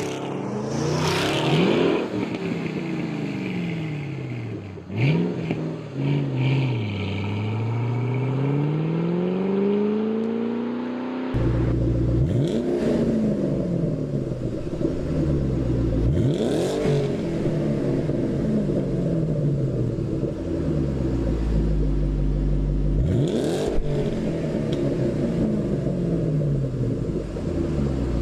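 Shelby AC Cobra's supercharged 5.8 L V8 exhaust, revving up and down in long rising and falling sweeps. About eleven seconds in, the sound cuts abruptly to a deeper, fuller running note, broken by three quick sharp revs.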